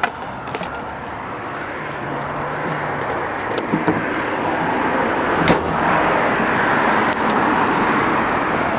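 Road traffic going by: a vehicle's tyre and engine noise swells slowly over about six seconds and stays up, with a few light clicks.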